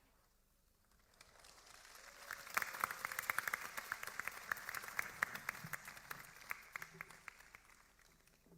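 Audience applause that builds up about a second in, holds with dense clapping, then dies away near the end.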